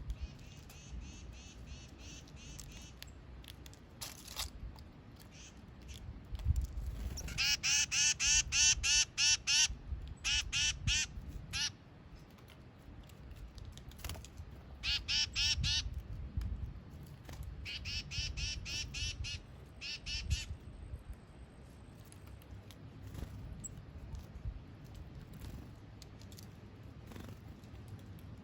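A bird calling in several runs of rapidly repeated, duck-like notes, each run lasting one to a few seconds, with pauses between them.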